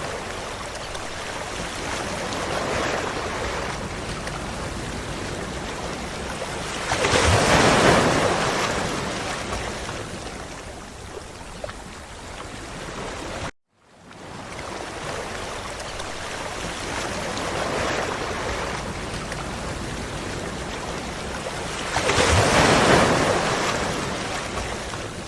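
Ocean waves washing onto a beach: a steady rush of water with one wave breaking loudly about a third of the way in and another near the end, separated by a brief dropout where the recording loops.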